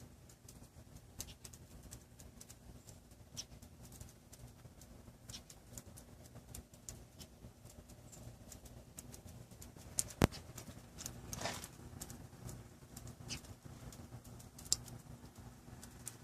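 Scattered light ticks and taps at an irregular pace over a steady low hum, with one sharper click about ten seconds in.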